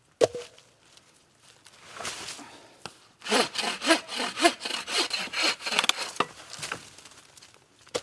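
Hand saw cutting dry black ash firewood in quick back-and-forth strokes, which start about three seconds in and die away about three seconds later. A single knock of wood comes right at the start.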